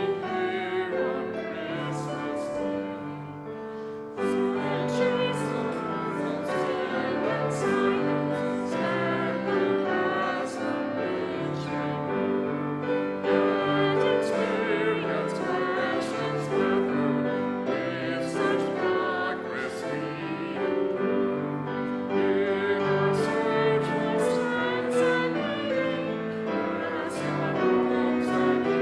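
Congregation singing a hymn with keyboard accompaniment. There is a short lull just before four seconds in, then the singing comes back in full.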